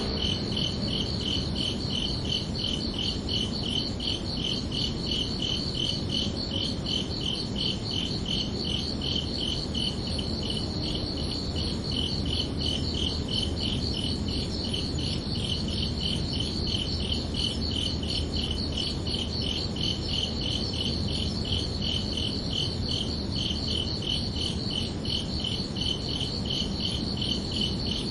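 Crickets chirping in a steady, even rhythm of a few chirps a second, over a low steady rumble.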